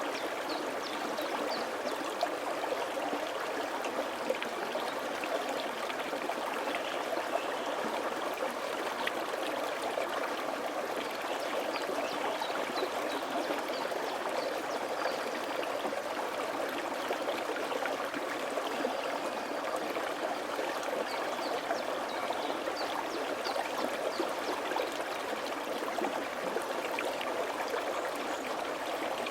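Mountain valley stream flowing over rocks, a steady rushing and babbling of water with small trickling splashes.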